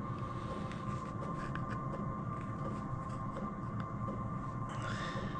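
Hand pliers working the edge of a thin aluminium panel to roll a slight curve into it: scattered small clicks and a brief scrape near the end, over a steady low hum.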